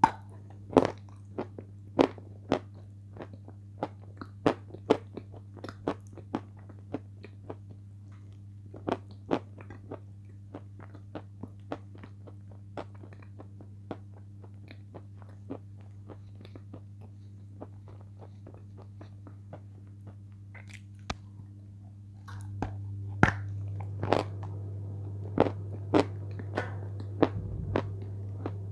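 Sharp, irregular crunches of someone biting and chewing a cream-coated chunk of Sevryukovo chalk, close to the microphone, over a steady low hum that grows louder about three quarters of the way through.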